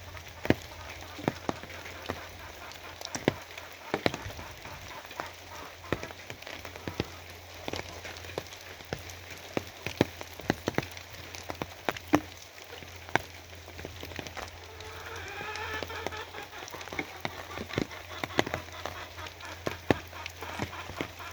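Rain falling, with many single drops tapping sharply and irregularly on a hard surface over a steady patter. A steady low hum runs underneath, and a short wavering animal call comes in about fifteen seconds in.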